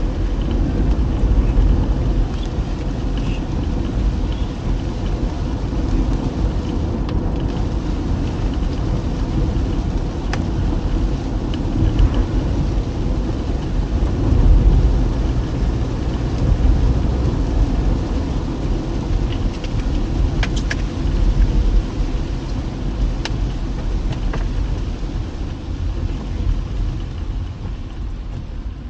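Car driving on a wet road in rain: a steady low rumble of engine and tyres, with a few faint light ticks.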